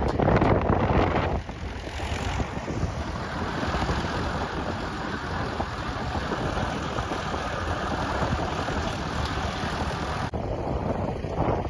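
Tractor engines running as the tractors go by on the road, with wind on the microphone. Loudest in the first second and a half, then steady.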